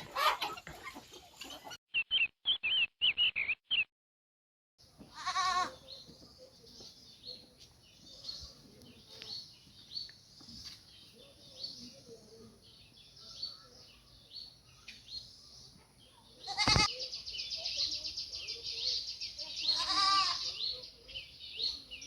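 Farmyard animal sounds: a goat bleats about five seconds in and again near the end, over continuous high chirping of birds. A sharp click comes shortly before the second bleat.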